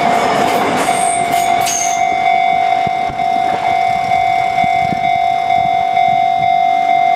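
Sotetsu 11000 series electric train passing, its wheels rushing over the rails and fading away about two seconds in, with two brief high squeaks. A steady high-pitched tone continues throughout.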